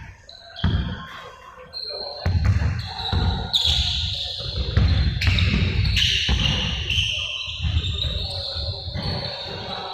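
Basketballs bouncing on a hall floor during practice, a run of dull thuds mixed with short high squeaks.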